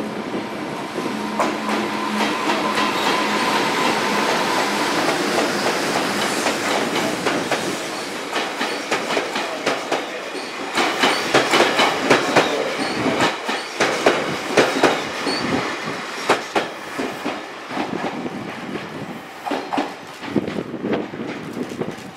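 Freight train hauling new YC1 series railcars rolling past, a steady rumble of wheels on rail with a thin steady squeal for the first few seconds. From about halfway through the wheels clack over rail joints in a quick run of clicks that thins out near the end.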